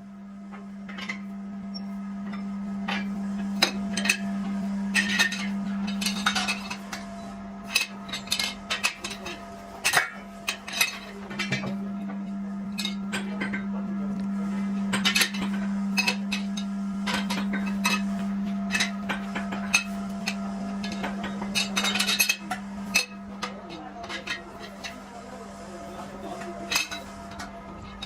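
Metal clinking and knocking against metal, many sharp irregular taps and rattles over a steady low hum.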